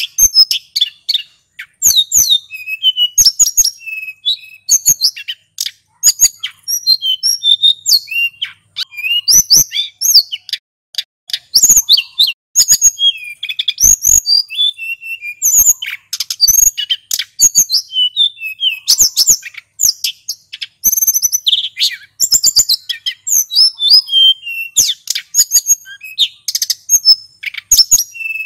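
Male sulingan gunung songbird singing in a continuous, fast run of high chirping and trilled phrases, with sharp clicking notes mixed in.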